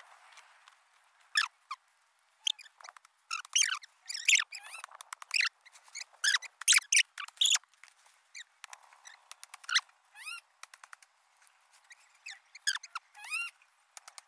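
Small birds chirping: many short, high, bending calls in quick clusters, some rising and falling. A few sharp clicks come in among them.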